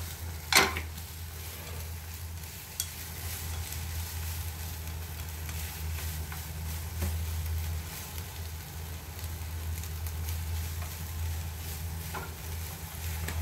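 Food sizzling as it fries in a pan, over a steady low hum. A brief sharp sound comes just after the start, and a small click about three seconds in.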